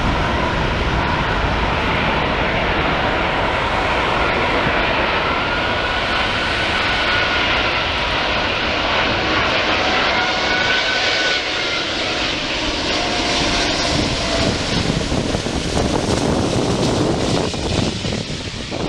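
Wide-body jet airliner's engines going by at close range: a loud, steady jet roar with thin whining tones that rise and fall in pitch.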